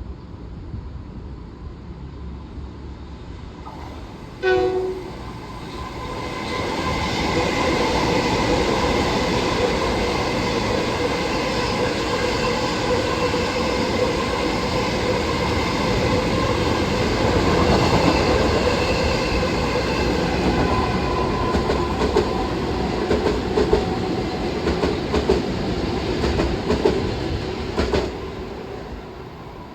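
A Long Island Rail Road train sounds a short horn blast, then runs past close by with a steady rush and whine. Rapid wheel clicks build near the end before the sound cuts off suddenly as the last car clears.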